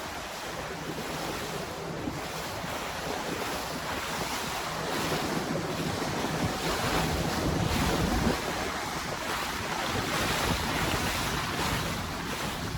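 Wind buffeting the microphone over the wash of sea water around a small fishing boat, with a faint steady low hum beneath.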